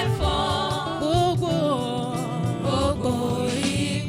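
Gospel worship music: a Yoruba praise song sung with a band accompaniment, the last word of a line held and melismatic.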